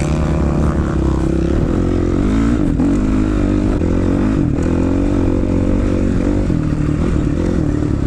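Motocross dirt bike engines revving on the track, their pitch rising and falling again and again as the throttle is worked.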